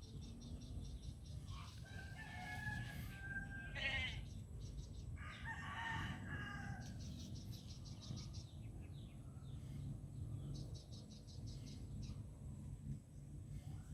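A rooster crowing twice, about two and five seconds in, over a low steady rumble and bursts of fast, high-pitched ticking.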